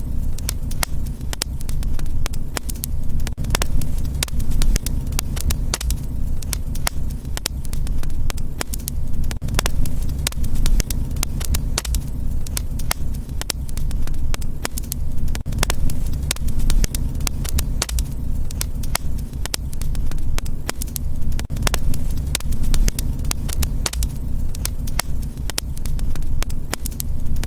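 Wood fire crackling, with many sharp pops and snaps coming quickly and unevenly over a steady low rumble of the flames.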